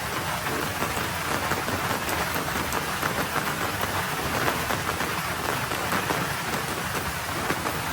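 Light rain falling on a road surface: a steady patter with many small individual drop ticks.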